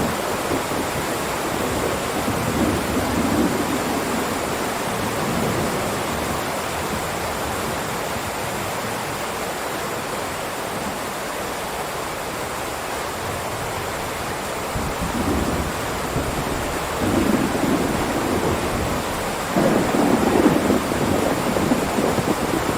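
Heavy rain falling in a steady downpour, a constant hiss, with low rumbling swells a few seconds in and again in the last third, loudest near the end.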